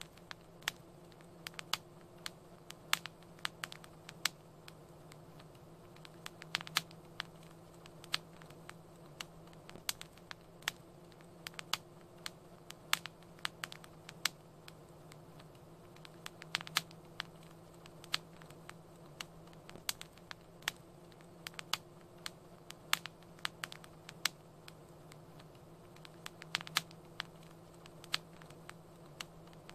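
Wood fire crackling in a fireplace: irregular sharp snaps and pops, often several a second, over a low steady hum.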